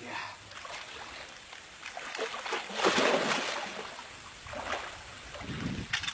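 Water splashing and sloshing in irregular bursts, loudest about halfway through.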